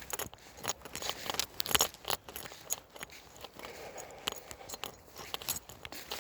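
A bunch of keys jangling, with many irregular sharp clinks.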